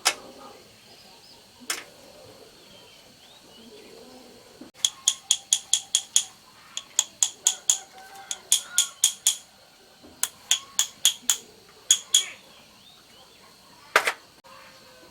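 Sharp tapping strikes on a hard, ringing object, likely metal, in quick runs of several taps a second, with single taps near the start and near the end. This is hand work on a chainsaw under repair.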